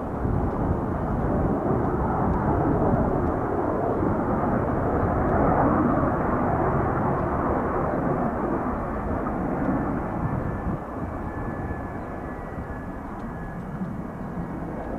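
Boeing 717-200's rear-mounted jet engines, a broad rumble and roar that swells over the first few seconds and slowly fades as the airliner lands and rolls out on the runway.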